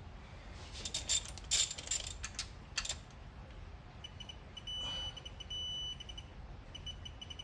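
Ratchet wrench clicking through a few quick strokes, then a digital torque wrench adapter beeping: a few short pips, then long steady high beeps, the adapter's signal that the set torque is being reached on a bolt.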